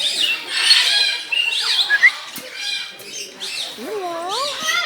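Several aviary birds calling at once, overlapping squawks and chirps. Near the end comes a lower, wavering whistled call that rises and falls twice.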